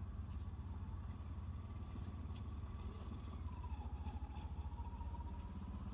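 Vehicle engine running at idle: a steady low rumble with a faint, even whine that dips slightly in pitch about three and a half seconds in.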